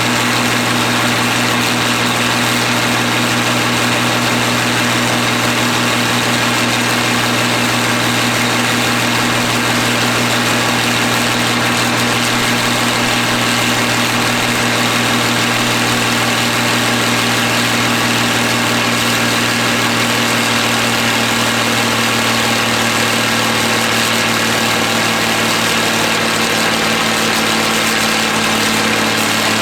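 John Deere 3650 tractor's six-cylinder diesel engine running loud and steady at constant speed while driving a PTO dynamometer, with no change in revs.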